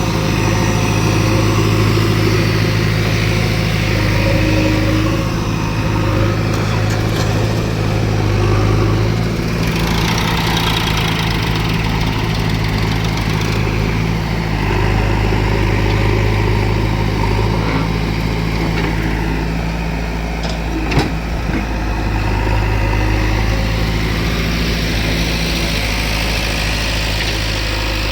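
Diesel engine of heavy farm and earthmoving machinery running steadily near idle, rising and easing a little now and then, with one sharp knock about 21 seconds in.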